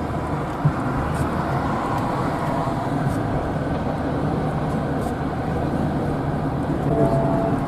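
Steady rumble of highway traffic, with a short pitched tone about seven seconds in.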